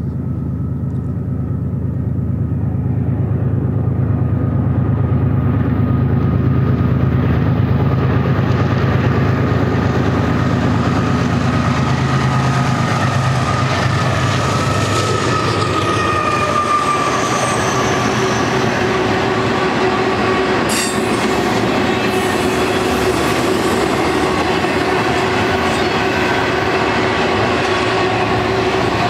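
A GE ES44C4 diesel-electric locomotive's four-stroke V12 engine running under power as the locomotives pass, the deep engine drone fading about halfway through. Double-stack container cars follow, rolling by with steady wheel-on-rail noise, a thin steady squeal and one sharp clack about two-thirds of the way in.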